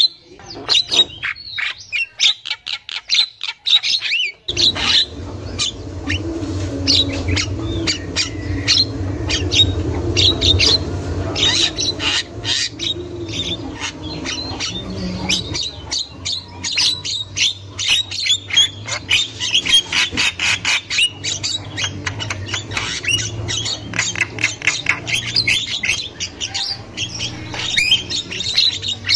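Javan mynas calling continuously: dense, harsh chattering and squawking notes in quick succession. From about four seconds in, a low steady hum runs underneath.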